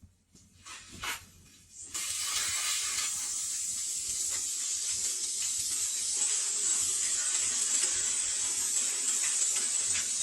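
Compressed-air sandblasting gun blasting the rusty iron floor frame: a steady, loud hiss that starts abruptly about two seconds in, after a couple of brief scrapes.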